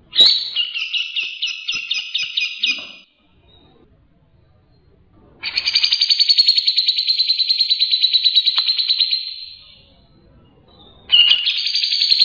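Songbird singing rapid, machine-gun trills of repeated high notes in three phrases: a short one, a longer one lasting about four seconds, and a third starting near the end, with brief pauses between. This is the fast 'tembakan' style of song used on masteran recordings.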